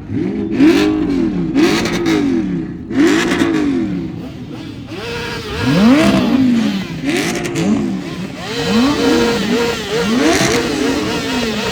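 Car engine revved again and again in short blips, each rev rising and falling in pitch about once a second, with a steadier engine note running underneath from about halfway through.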